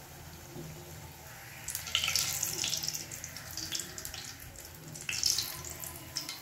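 A potato puri frying in hot oil in a shallow pan, sizzling and crackling. It gets louder about two seconds in and again around five seconds.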